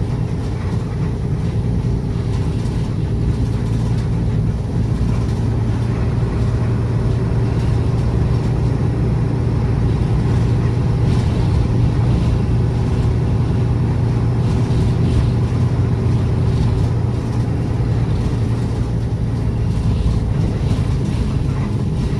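City route bus under way, heard from inside the cabin: a steady engine hum with road and tyre noise, running evenly.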